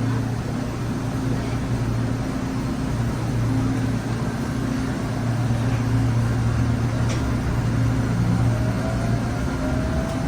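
LRT-2 light-rail train running with a steady low electric hum. A faint whine rises slowly in pitch near the end as the train picks up speed.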